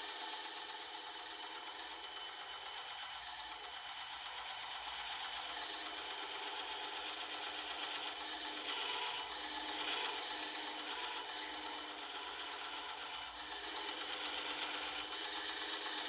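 Bandsaw running steadily, its blade cutting through board.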